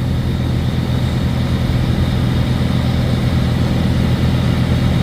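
A large engine idling with a steady, unchanging low hum.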